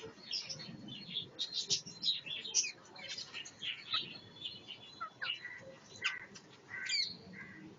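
Parrots chirping and squawking in quick, overlapping high calls, some sliding up and down in pitch, as they squabble.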